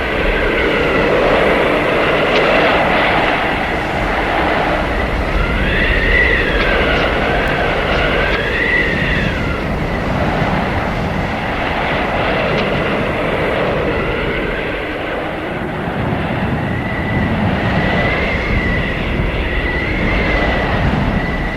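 Blizzard wind blowing steadily and howling, with whistling tones that rise and fall in several gusts over a rushing roar.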